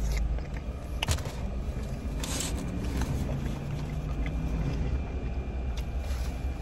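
Chewing and soft mouth sounds while eating a bite of smoked Polish sausage, over a steady low rumble in a car cabin, with a few small clicks and a brief breathy hiss.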